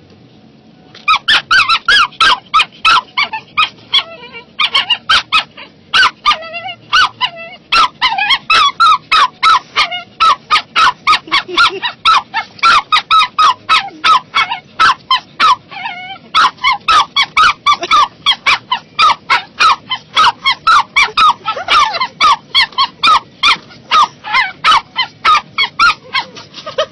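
A small dog yapping frantically and nonstop: sharp, high-pitched yaps about three a second, starting about a second in, with a few short breaks and some drawn-out, wavering yelps among them.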